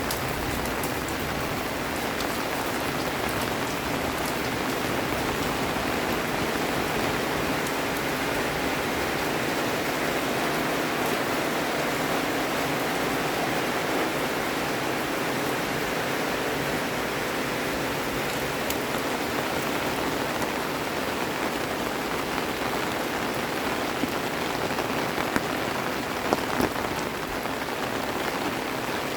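Steady rain falling and pattering on surfaces, with a few sharper drop taps near the end.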